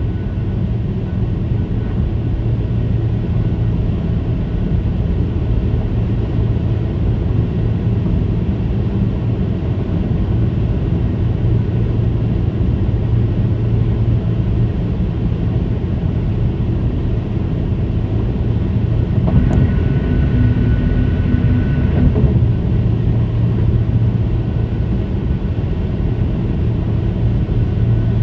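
Car tyres on diamond-ground concrete pavement at high speed, making a steady low-pitched hum over road rumble. A single click comes about two-thirds through, with a higher tone joining briefly after it.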